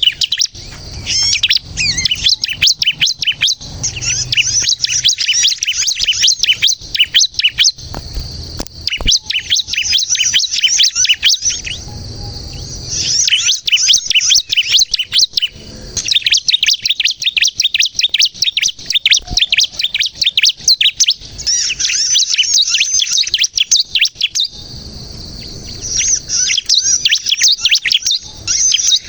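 Bar-winged prinia (ciblek kristal) singing a fast, high-pitched chattering song, almost continuous, with a few short pauses.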